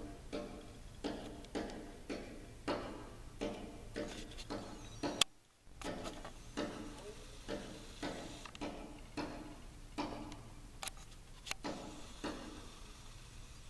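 A bird repeatedly pecking and striking a pane of window glass: sharp knocks about two a second, each with a brief ringing of the glass. About five seconds in, a louder sharp click is followed by half a second of silence.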